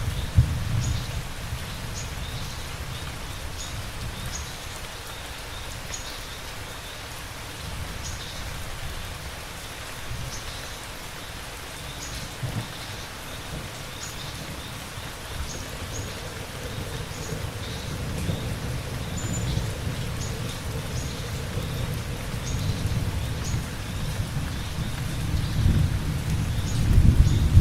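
Steady rain falling, with low rumbling thunder underneath that swells near the end.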